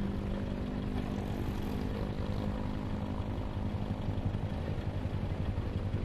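Yamaha R15's single-cylinder four-stroke engine running while the motorcycle rides along, with wind rushing over the microphone. The engine's steady note weakens after about two seconds, leaving mostly a low rumble and wind.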